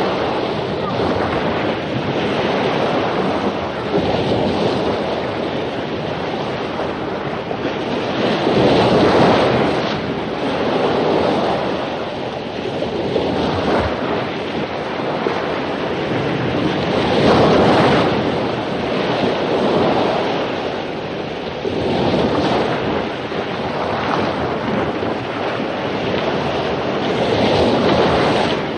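Ocean surf breaking on a beach in heavy post-storm swell, a continuous wash of water that swells as waves crash, about every four to eight seconds, with wind.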